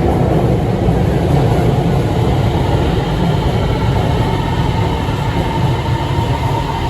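Beijing Subway Line 7 train pulling into the station: a loud, steady rumble, with a thin high whine coming in about halfway through.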